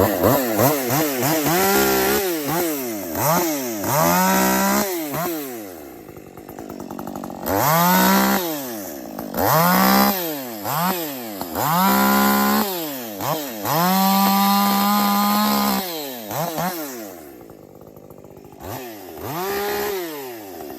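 A 50 cc class two-stroke chainsaw being revved in repeated throttle blips, several times held wide open for a second or two at a steady high pitch, settling back to idle briefly near the end before revving again: the saw being warmed up.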